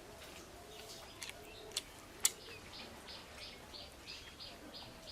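A small bird chirping over and over, short high chirps at about three a second, starting a little past two seconds in. Before that come a few sharp clicks.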